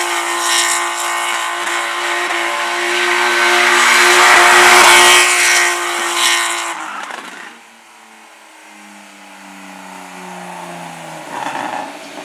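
Slalom car's engine held at high revs with tyre squeal for about seven seconds, then the revs fall away and the engine note drops as the car slows.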